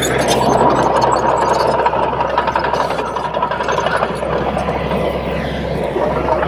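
Komatsu D31P crawler bulldozer's diesel engine running steadily, with a rattling mechanical clatter and a faint whine over it.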